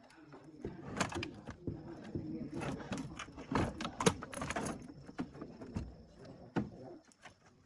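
Irregular clattering and knocking of hard objects being handled, busiest about a second in and again from about two and a half to four and a half seconds in.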